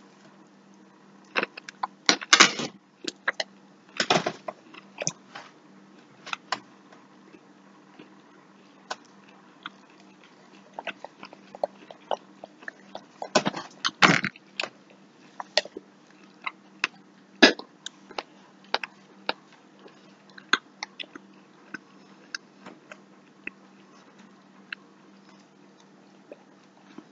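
A man chewing a big bite of fried beef liver: many small wet mouth clicks and smacks, broken by a few louder brief mouth noises about 2 and 4 seconds in and again around the middle.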